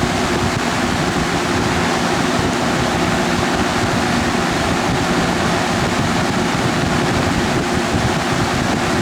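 Vintage Superlectric 20-inch box fan, model 2023B, fitted with a Lakewood blade set, running steadily on high: an even rush of air over a faint motor hum.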